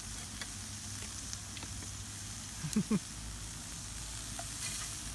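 Food sizzling steadily over a campfire, with a few light clicks and two short, louder sounds about three seconds in.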